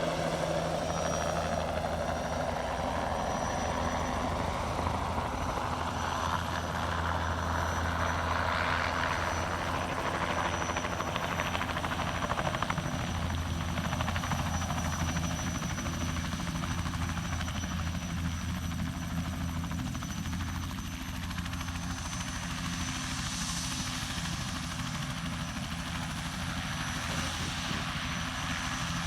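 Crop-spraying helicopter's rotor and engine running steadily, a continuous low rotor drone with a higher whine over it.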